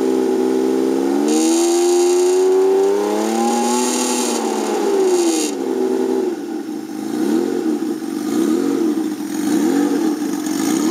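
Turbocharged 1982 Honda CBX inline-six engine running. It is revved up and held twice in the first half, then settles and is blipped, the revs rising and falling about once a second.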